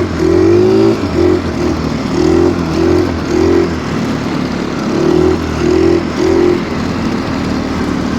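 Stels Kapitan Long snowmobile engine running under throttle, revving up and easing off in about nine short surges, with steadier running in between.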